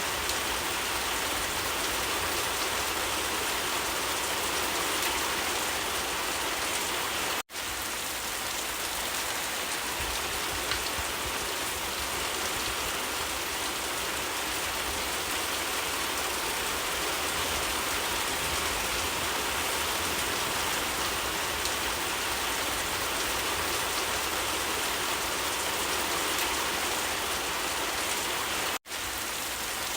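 Steady rain falling, an even hiss of drops, cutting out for an instant twice, about a third of the way in and near the end.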